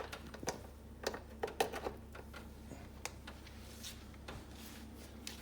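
Light plastic clicks and knocks from a hair dryer and its cord being handled, thick at first and then only a few; the dryer is not running. A faint steady low hum lies underneath.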